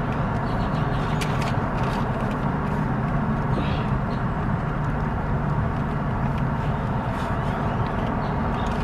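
Car engine idling: a steady low hum heard from inside the car's cabin.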